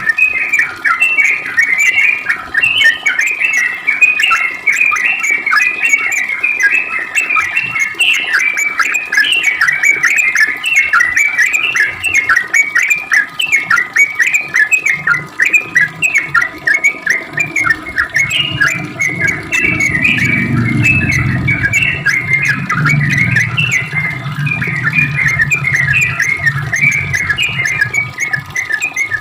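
Yellow-vented bulbul (trucukan) singing a long, unbroken run of quick, rapid-fire chirping notes. A low hum rises under the song about two-thirds of the way in and fades near the end.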